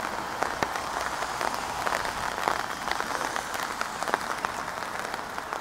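Steady rain falling, made up of many separate sharp drop hits.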